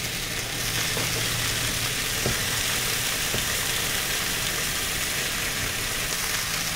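Sliced red potatoes frying in olive oil in a nonstick pan, giving a steady sizzle, with a low steady hum underneath.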